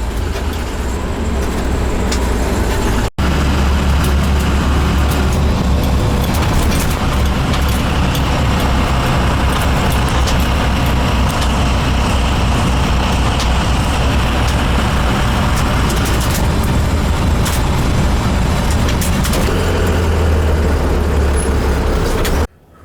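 Steady engine and road noise heard from inside a moving vehicle, with a low rumble. It breaks off for an instant about three seconds in and stops abruptly near the end.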